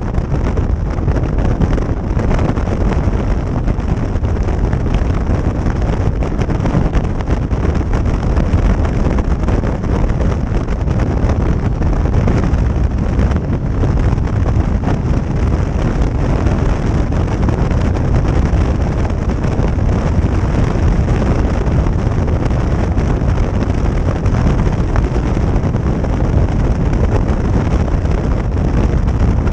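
Steady wind noise buffeting the microphone on a motorcycle riding at speed, with the bike's engine and road noise beneath it.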